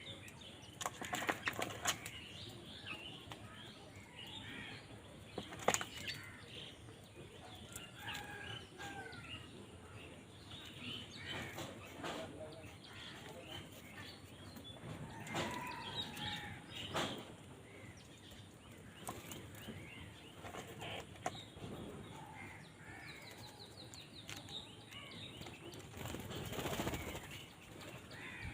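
Crows squabbling over food: several sudden bursts of wing flapping, the longest near the end, among many short bird calls and chirps.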